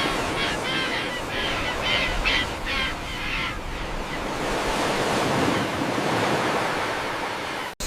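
A bird giving a quick series of about seven harsh calls, a little over two a second, that stop about three and a half seconds in. Behind them is a steady rushing noise like surf or wind.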